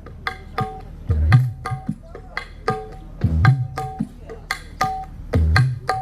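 Kendang hand-drum groove in dangdut style. Deep, pitch-bending bass strokes come round about every two seconds, with sharp higher slaps and ringing tones between them.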